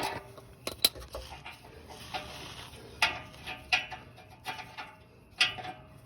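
Scattered light clicks and taps, about a dozen spread unevenly and none of them loud, over a faint steady hum.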